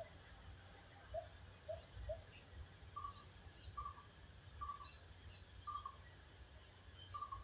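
Faint birds calling: three short low notes about a second in, then a string of short, slightly higher calls repeated about once a second, with faint high chirps over a low background rumble.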